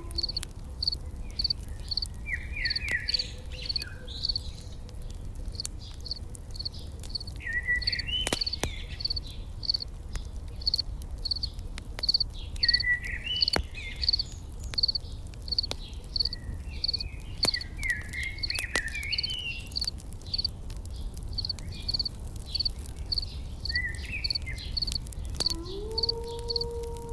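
Insects chirping in an even, high pulse of about one and a half chirps a second, with birds calling in short twittering phrases several times. Campfire crackling gives scattered sharp pops over a low rumble. Near the end a low tone slides up and holds.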